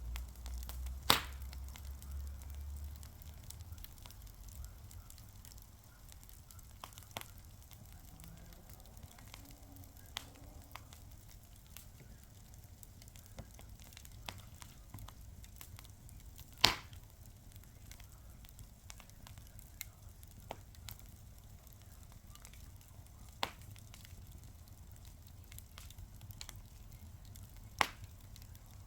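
A wood fire crackling: a faint steady hiss with scattered small snaps and three sharp, loud pops, about a second in, midway and near the end.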